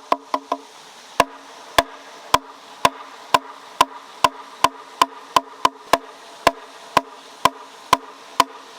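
A tool striking a hard object over and over: a few quick knocks at first, then a steady rhythm of about two sharp knocks a second, each leaving a brief ringing tone.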